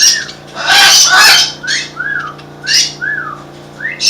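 Parrots squawking: a long, harsh squawk about a second in and shorter squawks after it, over a short rising-and-falling whistled call repeated about once a second and a steady low hum.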